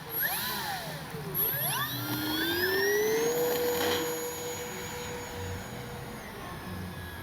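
Brushless electric motor and propeller of an FMS Cessna 182 Skylane RC plane whining in flight. The pitch dips, then rises over about two seconds as the throttle comes up, holds steady, and fades near the end.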